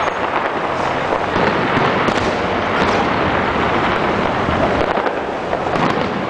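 Fireworks finale: a continuous barrage of many overlapping bangs and crackles with no break.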